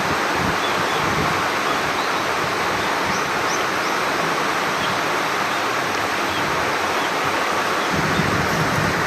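Mountain stream water rushing, a steady, even sound throughout.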